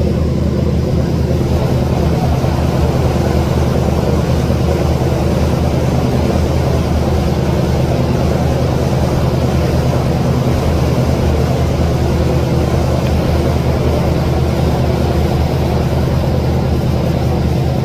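A large engine running steadily at a constant speed, giving a low, even drone.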